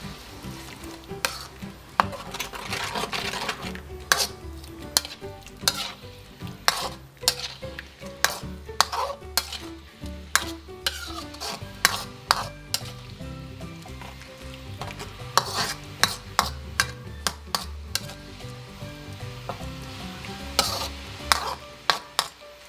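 Metal spatula stirring and scraping pork and sauce around an aluminium wok, with repeated irregular clinks and scrapes against the pan over the sizzle of the simmering sauce.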